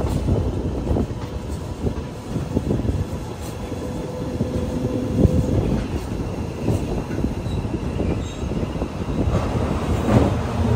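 Passenger train running along the track, heard from an open coach doorway: a steady low rumble with irregular clatter and knocks from the wheels on the rails, and a faint squeal from the wheels in the middle. Near the end the rumble grows louder and heavier as the train rolls onto a steel truss bridge.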